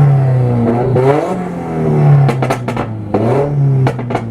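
Car engine with a hater-pipe exhaust being revved in quick blips, the pitch rising and falling several times. Sharp exhaust pops crackle as the revs fall in the second half.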